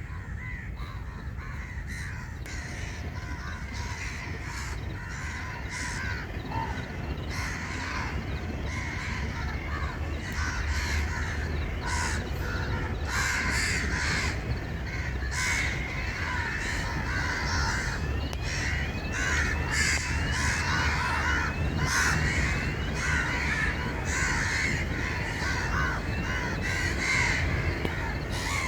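A large flock of birds calling over one another in a dense, continuous chorus of short calls, growing gradually louder toward the end.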